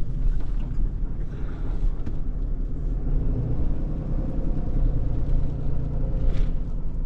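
Tow truck's diesel engine running as the truck pulls away with a car in tow, a steady low rumble that firms up about three seconds in.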